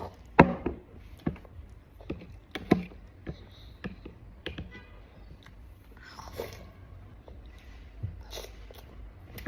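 A child eating: chewing and biting food, with a string of short sharp clicks and knocks, the loudest about half a second in and again near three seconds.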